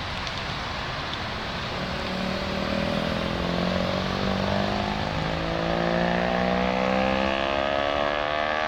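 A car engine accelerating, its note climbing slowly and steadily in pitch over several seconds as the revs rise, over a steady background rumble.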